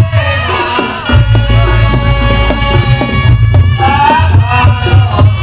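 Reog Ponorogo gamelan accompaniment played loud: a held, wavering wind melody over rhythmic drum and gong strokes, with a heavy booming bass.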